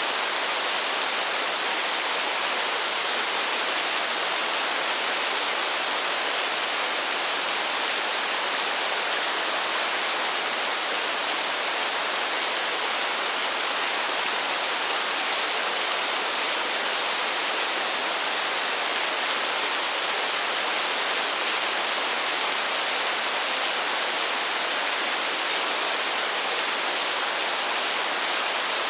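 Falling water making a steady, even hiss, with no separate drops or changes.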